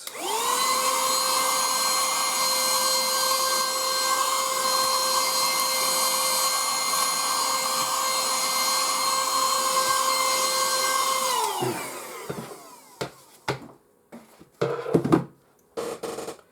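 Small handheld vacuum cleaner switched on, spinning up within a fraction of a second and then running steadily with a high motor whine. About eleven seconds in it is switched off and winds down. A few clicks and knocks of handling follow.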